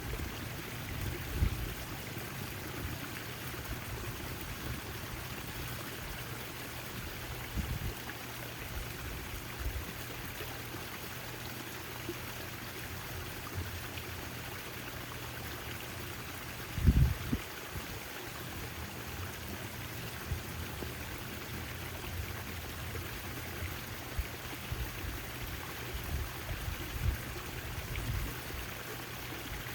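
Backyard fountain: water splashing and trickling steadily, with a few brief low bumps, the loudest about 17 seconds in.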